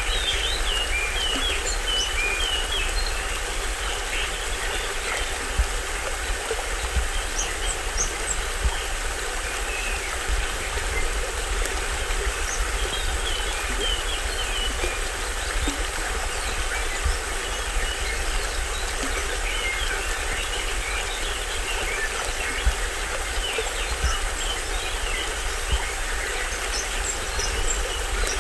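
A small stream waterfall rushing steadily with a low rumble, while birds chirp in short clusters, thickest at the start and again through the second half.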